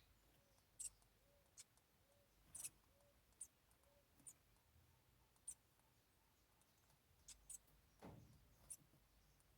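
Near silence with faint, scattered clicks and scratches, about one a second, and a short low falling sweep about eight seconds in.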